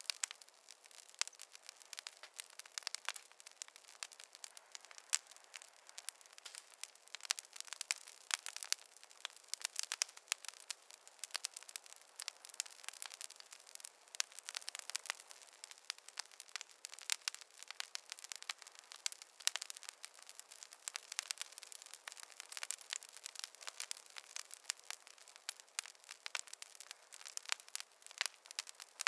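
Wood fire crackling in a fireplace: a continuous dense run of sharp pops and snaps, several a second, over a faint hiss.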